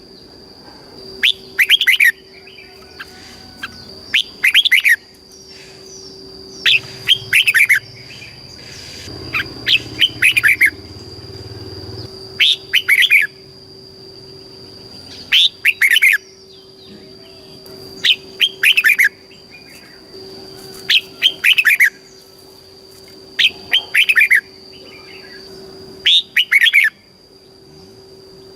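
A red-whiskered bulbul singing short, clear phrases of falling whistled notes, repeated about every two to three seconds, about ten times. A steady high-pitched whine and a faint low hum run underneath.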